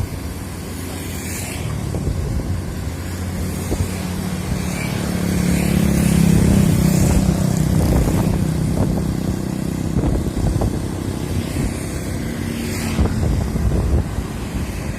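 Excavator's diesel engine running, growing louder and working harder between about four and eight seconds in, with scattered knocks.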